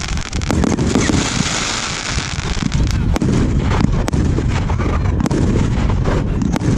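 Aerial fireworks going off in quick succession: many sharp bangs and pops over low booming, with a dense crackling hiss from about one to two and a half seconds in.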